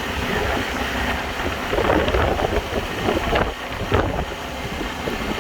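A gust of wind buffeting the microphone: a low rumbling roar that swells about two seconds in and drops away after about four seconds.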